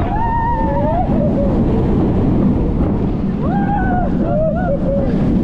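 Heavy wind noise rushing over the microphone on a moving roller coaster. Riders' long, wavering screams rise above it near the start and again in the second half.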